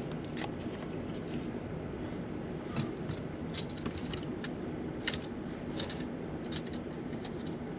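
Scattered light clicks and taps of food-prep handling, utensils and packaging, over a steady low background noise.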